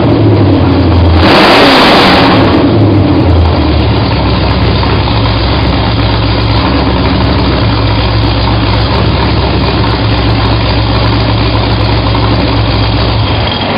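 Ford 351 Windsor V8 crate engine blipped once about a second in, then dropping back and settling into a steady idle.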